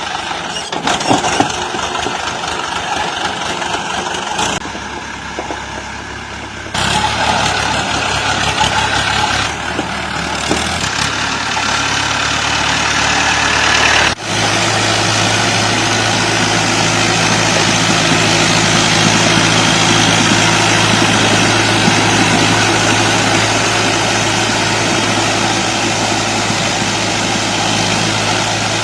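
Tractor engine running, heard in several clips joined with abrupt cuts; from about halfway it settles into one steady, even engine note.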